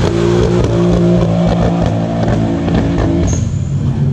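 Nissan Z-car V6 with a competition exhaust held at high revs, a steady drone, then the revs drop about three seconds in.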